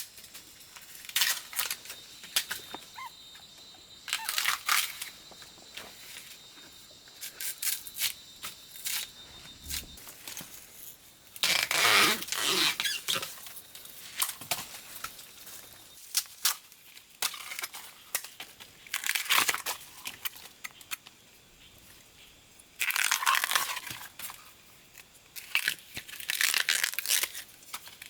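Irregular bursts of rustling and tearing, as of dry plant material being handled, with scattered clicks. A faint steady high whine runs through the first third.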